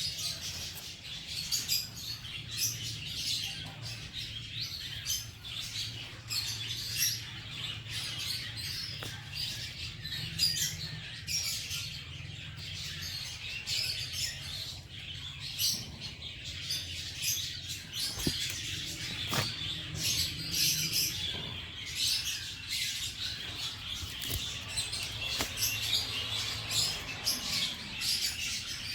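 Small birds chirping repeatedly in short, high chirps, over a low steady hum.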